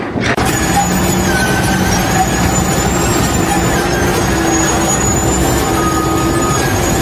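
Loud, steady running of a heavy vehicle or machine. Near the end a reversing alarm starts beeping, about once a second.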